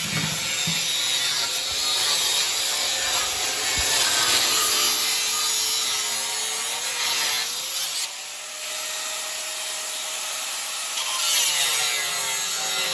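Electric angle grinder grinding metal: a steady hissing grind over the motor's whine. The whine's pitch sags and recovers as the disc is pressed into the work, and the grinding lets up briefly about eight seconds in.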